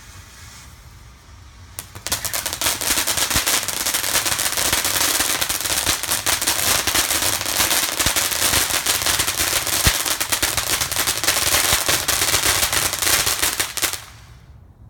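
A string of firecrackers going off in a rapid, unbroken run of sharp bangs. It starts about two seconds in and cuts off near the end.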